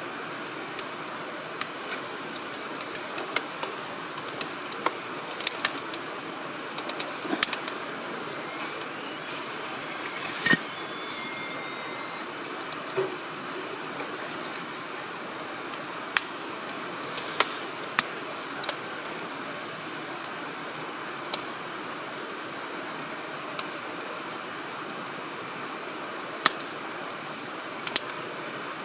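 Wood fire crackling in a fire grill: a steady hiss with irregular sharp pops and snaps of burning firewood, a louder flurry of pops about ten seconds in.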